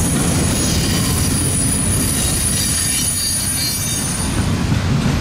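CSX freight train's covered hopper cars rolling past close by: a steady, low rumble of wheels on rail. A thin, high whine rides over it and fades out near the end.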